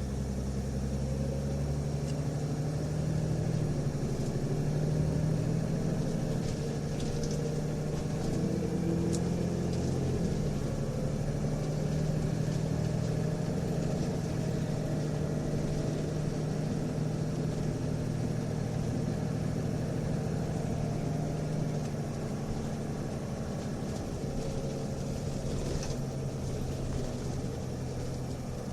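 Nissan Diesel UA272 city bus engine and ZF four-speed automatic running under way, heard inside the cabin: a steady diesel drone whose note changes about ten seconds in and again a little past twenty seconds. This bus is an 'odd-sound' unit whose tone differs from a normal UA272, holding high revs before each upshift, which the recordist puts down to power mode or torque-converter slip without being certain.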